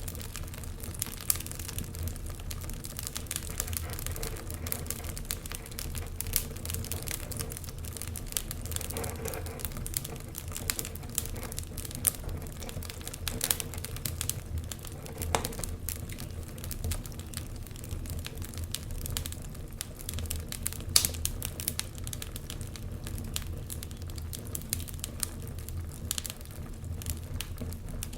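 Wood fire crackling, with frequent sharp pops over a low steady rumble.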